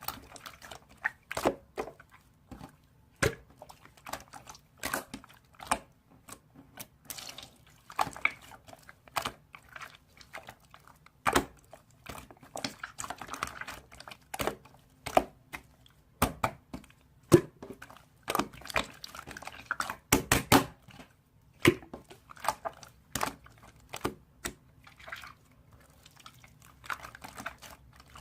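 Irregular sharp clicks and knocks, several a second in clusters, over a faint steady low hum.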